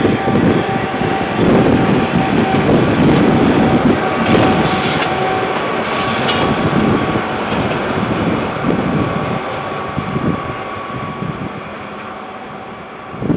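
Freight train passing: the locomotive and container wagons rolling over the rails, a steady rumble with a faint steady whine over it, loudest at first and slowly fading as the train moves off. Heard through a security camera's microphone.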